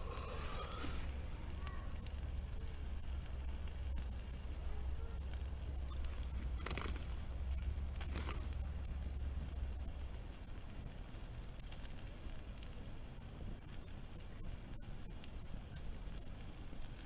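Food sizzling on a grill over a campfire: a steady hiss with a couple of sharp pops about seven and eight seconds in, and a brief rising squeak near the start.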